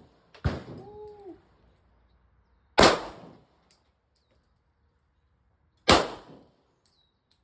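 Three single pistol shots from a Glock 22 Gen 5 in .40 S&W, fired slowly, about two and a half to three seconds apart, each a sharp crack with a short fading tail. A man whoops "woo" just after the first shot.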